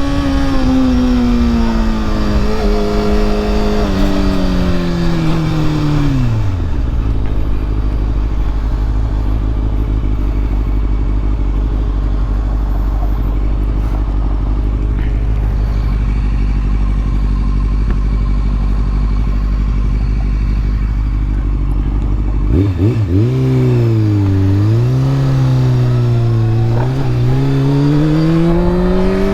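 Honda CBR sport motorcycle engine heard from the rider's position. The revs fall as the bike slows and settle to a steady idle about 7 s in. About 22 s in they climb again with a couple of dips at the gear changes, still rising at the end as the bike pulls away.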